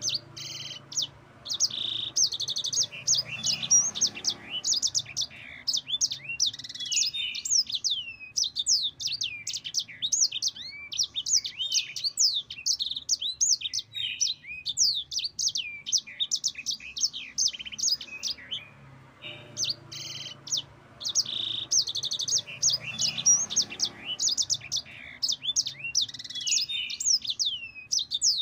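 A sanger, a small seedeater kept as a songbird, singing long rapid rolling trills of high chirps and quick down-sweeping notes. There is a pause of a few seconds about halfway through before the song resumes.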